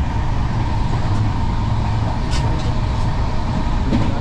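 Moving passenger train heard from inside the coach: a steady, loud running rumble of the wheels on the track, with a couple of faint clicks about two seconds in and near the end.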